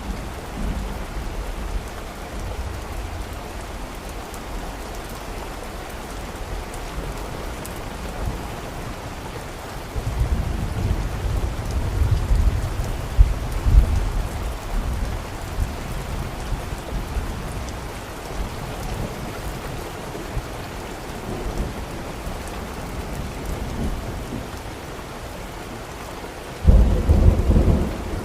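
Steady heavy rain with thunder: a long low rumble rolls in about ten seconds in, and a louder, sudden thunderclap breaks near the end.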